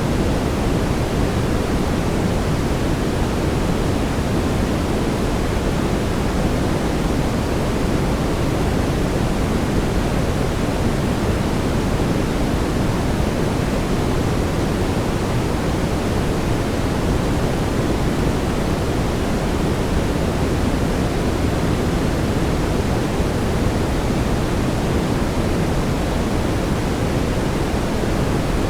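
Steady synthetic brown noise: an even, unbroken rumbling hiss, strongest in the low end and falling off toward the highs.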